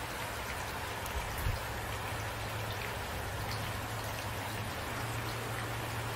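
Steady rain falling, a dense even patter of drops, with one brief low thud about a second and a half in.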